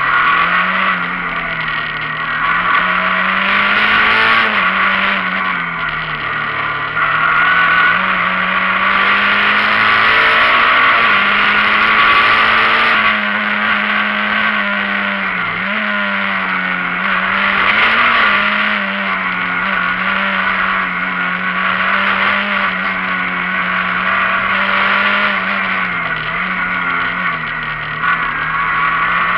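Rally car engine at full stage pace heard from inside the cockpit, its revs repeatedly rising and dropping as the car accelerates, brakes and shifts gear.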